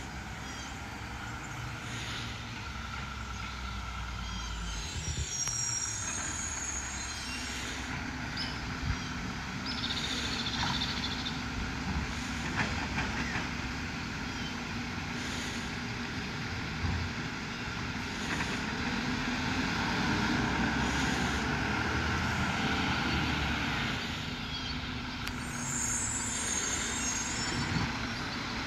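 Mack LR garbage truck with a Labrie Automizer automated arm working through a pickup: the engine runs steadily, with hissing air-brake releases early on and near the end and a whine that rises for a few seconds in the middle as the arm works.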